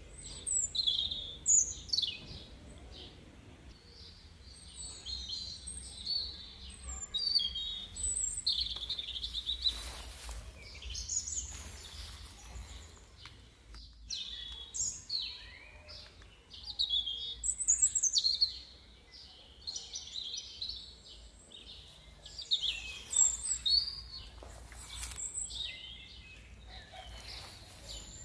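Several small songbirds chirping and singing, with short high calls and trills overlapping one another throughout, over a steady low rumble.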